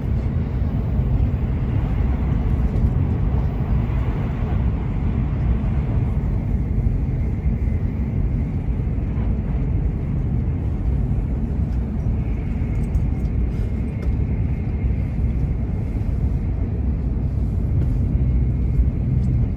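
A Joetsu Shinkansen train running at speed, heard from inside the passenger cabin as a steady low rumble of wheels on track and rushing air. A faint high whine runs through the middle of it.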